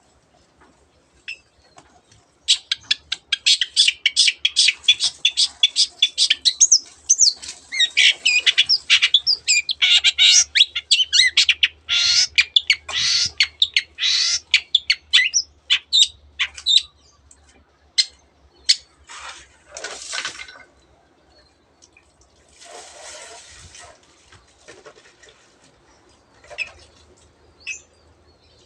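Long-tailed shrike (cendet) singing a fast, dense chattering song packed with mimicked phrases, canary among them, for about fifteen seconds, then breaking into scattered single calls. A short rustle sounds about two-thirds of the way through, over a faint low hum.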